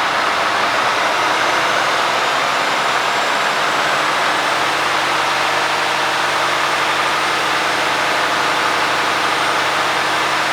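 Mercedes-Benz Actros 2548 tractor unit's straight-six diesel engine idling steadily.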